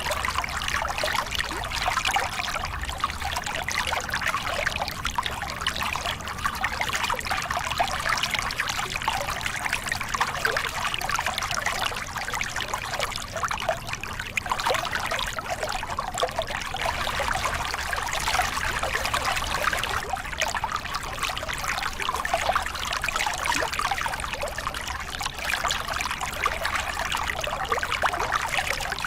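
Water splashing and gurgling over a small cascade in a river, a steady rush of flowing water.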